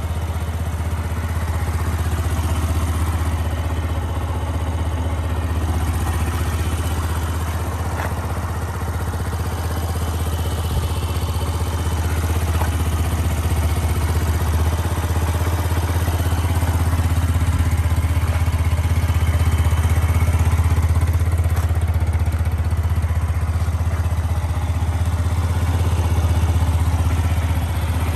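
Yamaha YBR125's air-cooled single-cylinder four-stroke engine idling steadily. The seller describes the engine as in good condition.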